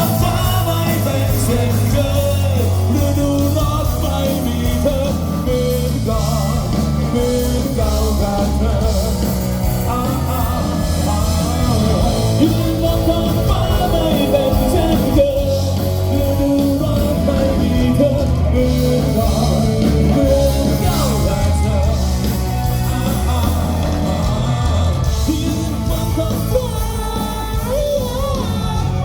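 A band playing a rock-style song, with a lead singer over bass, drums and guitars.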